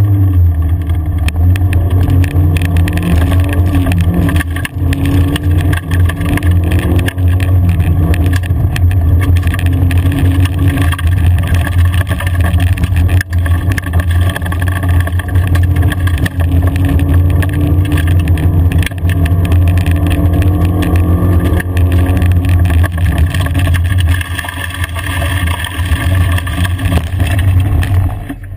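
A rally car's engine heard from inside the cabin, driven hard along a gravel forest track. Its pitch climbs and breaks several times with gear changes, and it eases off near the end.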